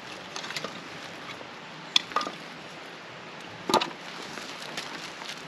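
A few sharp knocks, the loudest about two seconds in, a smaller one just after, and a double knock near four seconds, over a faint steady hiss.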